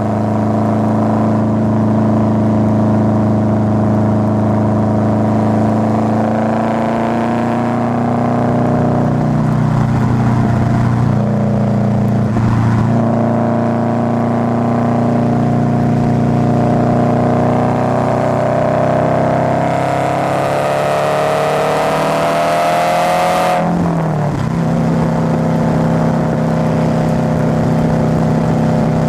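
Subaru Forester's flat-four engine and exhaust under way: a steady drone, then the pitch climbs for several seconds as the engine revs up under acceleration, drops suddenly a little past two-thirds of the way in, as at a gear change, and settles into a steady drone again.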